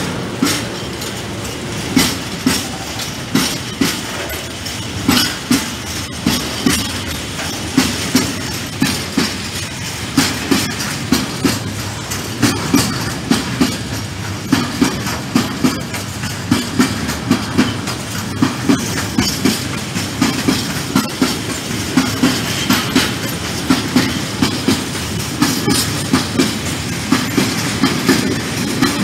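Freight train of covered wagons rolling past, its wheels clacking over rail joints in a steady rhythm of paired clicks over a continuous rumble.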